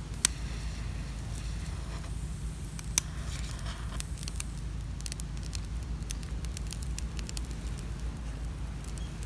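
Wood campfire crackling with scattered sharp pops, the two loudest about a quarter second in and about three seconds in, over a low steady rumble.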